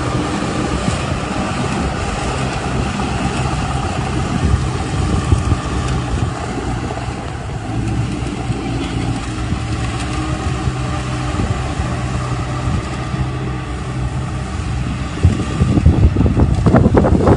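Rice combine harvester's diesel engine running steadily, with a louder mechanical rattle setting in near the end.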